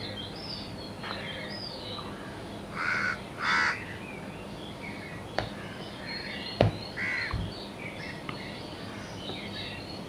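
Bird calls in a wild soundscape: small high chirps throughout, two louder calls about three seconds in and another about seven seconds in, with two sharp clicks between them.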